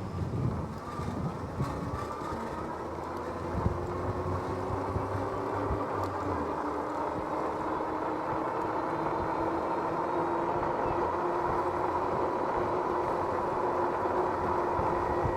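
Electric bike's rear hub motor whining while riding, its pitch rising slowly as the bike gathers speed, over tyre and wind noise. A single knock about four seconds in.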